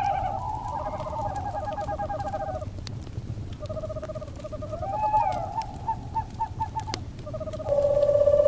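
Owls calling in overlapping quavering trills, one call rising and falling in pitch about five seconds in and a louder, level trill starting near the end, over the scattered pops of a crackling wood fire.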